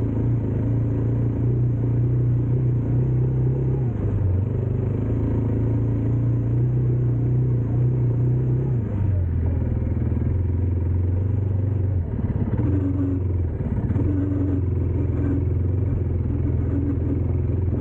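Dirt bike engine running steadily under way; the engine note dips briefly about four seconds in, then drops to a lower steady pitch about nine seconds in.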